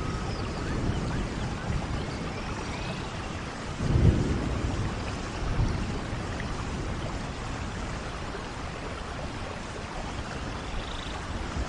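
Steady rain falling, with thunder rumbling: a low rumble swells about four seconds in and a smaller one follows shortly after.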